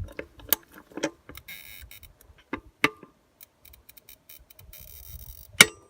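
Scattered clicks and short metallic ticks as a torque wrench tightens a glow plug to 20 Newton metres. A sharp, louder click comes near the end.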